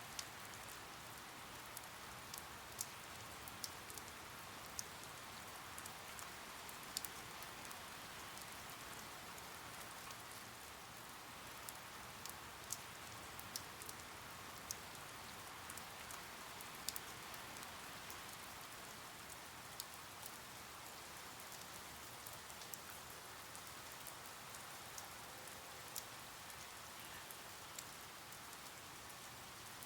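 Steady rain: an even, soft hiss with scattered sharp drop ticks throughout.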